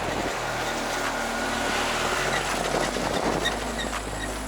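Moped engine running steadily without stalling.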